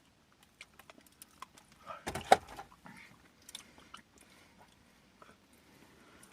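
Eating sounds: scattered small clicks and handling noises of a Blizzard cup and utensils, with chewing. A louder knock or bump comes a little after two seconds in.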